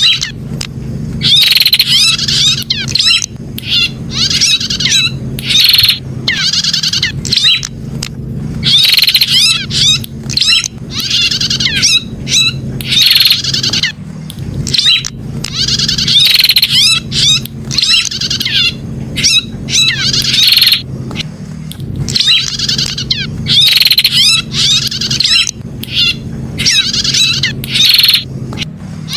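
Prinia (prenjak) calling over and over in loud, rapid chirping phrases about a second long, separated by short gaps, over a steady low hum.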